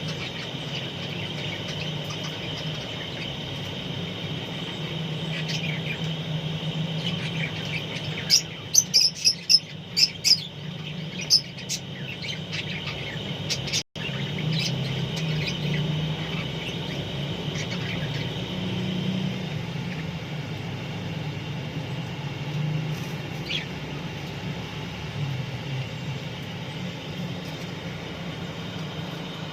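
Parrots chirping, a quick cluster of sharp high calls from about eight to eleven seconds in and one more later. Under them runs a steady high drone and a low hum, and the sound cuts out for an instant near the middle.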